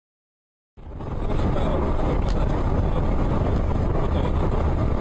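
Dead silence, then under a second in a car's steady engine and road noise cuts in abruptly and runs at an even level.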